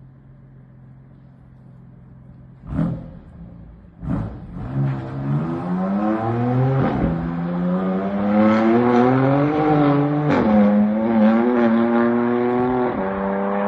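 BMW M2 Competition's twin-turbo inline-six exhaust: a low idle, then two sharp cracks about three and four seconds in, after which the engine note climbs steadily, drops about ten seconds in and holds at a steadier pitch.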